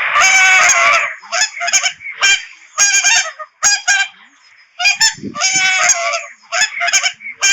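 Swan calling: a long call at the start, then a string of short calls and a second long call about five seconds in.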